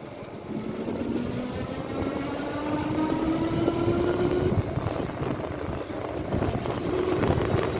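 Wind buffeting the microphone of a moving e-bike, with a faint whine that rises slowly in pitch over a few seconds.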